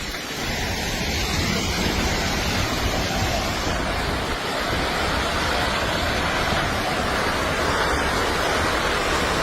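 A steady, even rushing noise with a strong low rumble underneath, unbroken throughout.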